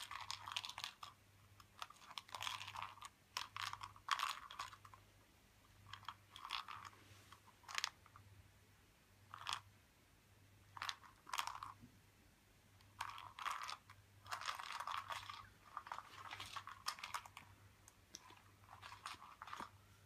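A cat crunching dry treats, chewing in short, irregular bouts with brief pauses between mouthfuls.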